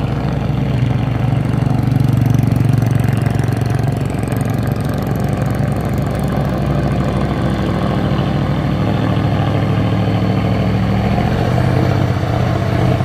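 Heavy truck's diesel engine running at idle, rising a little in level about two seconds in and again near the end.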